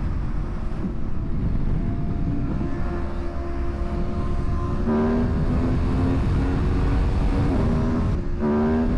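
Aprilia Tuono motorcycle engine accelerating, its note rising steadily, with a brief dip at a gear change about eight seconds in, over a steady low rush of wind and road noise.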